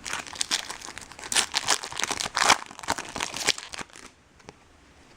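Foil wrapper of a Bowman Chrome baseball card pack crinkling and tearing as it is opened, a quick run of crackles that stops about four seconds in.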